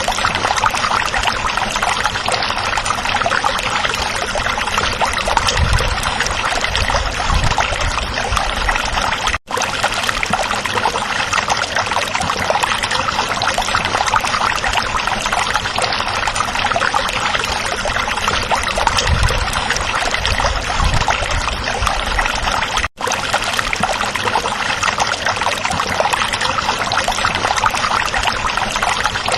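Stream water trickling and babbling over stones, a steady dense rush. It cuts out for an instant twice.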